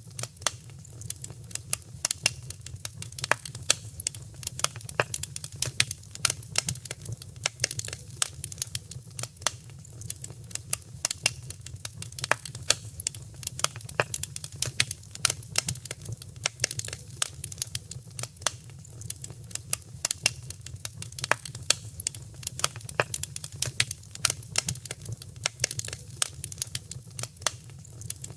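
Wood fire crackling in a fireplace: dense, irregular pops and snaps over a low, steady rumble of the flames.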